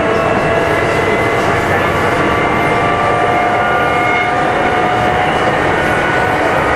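Kintetsu 2410 series electric train running, heard from inside motor car Mo 2413: a steady rumble of wheels on rail with a whine from the running gear whose tones drift slowly up in pitch.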